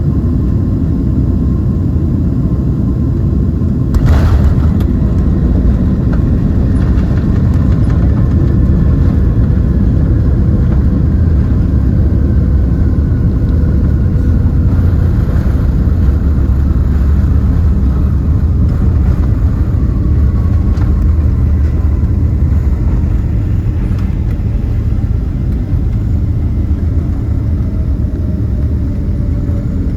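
Cabin noise inside a Boeing 767-300ER: a loud, steady low rumble with a sharp thump about four seconds in. The engines' whine slowly falls in pitch through the rest.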